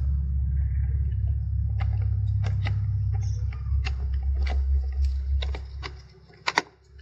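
Small sharp clicks and knocks of metal and plastic parts being handled as the shaft is fitted into a Toyota MMT gear-shift actuator, with a loud double click about six and a half seconds in. A low steady hum runs underneath and drops away about six seconds in.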